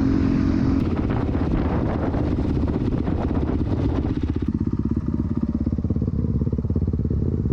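Dirt bike engine running, then dropping to a slow idle about four and a half seconds in, with its firing pulses plainly heard.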